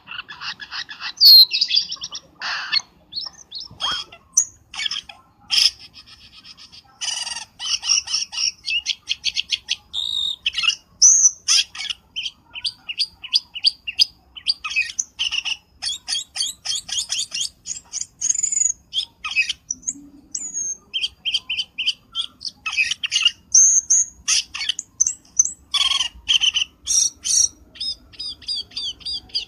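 Cucak keling birds calling: a dense, busy run of rapid chirps, trills and short whistles, nearly without pause. This is the lure call bird trappers play to draw the species in.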